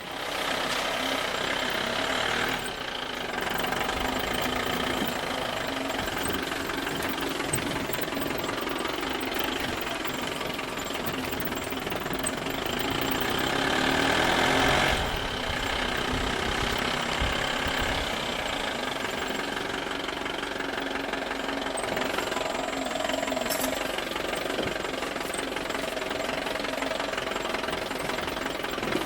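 A small motor running steadily with a knocking rattle, building up over a few seconds about halfway through and then easing back.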